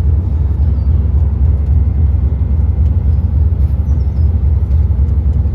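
Steady low rumble of a moving tour tram, heard from on board.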